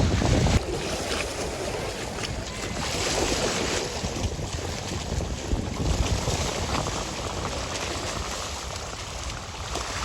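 Wind buffeting the microphone, heavy at first and dropping suddenly about half a second in, over a steady wash of waves on the shore.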